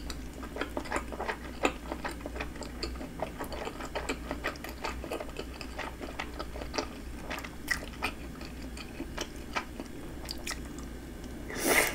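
Close-miked chewing of spicy fish cake (eomuk), with many small wet mouth clicks. A louder bite comes near the end.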